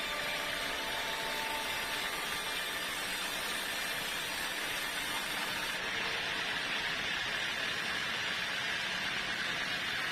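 Sawmill machinery running: a steady, even noise that holds at one level without breaks.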